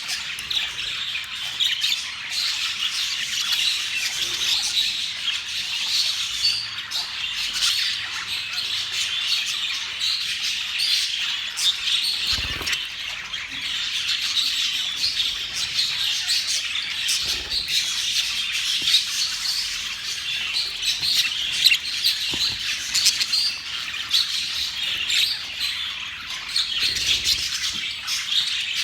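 A flock of budgerigars chattering continuously, a dense mix of chirps, warbles and squawks.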